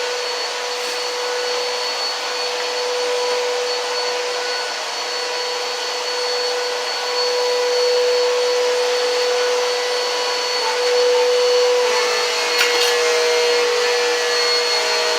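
Vacuum cleaner running, a steady motor whine over a rushing hiss. A second, slightly higher tone joins about twelve seconds in.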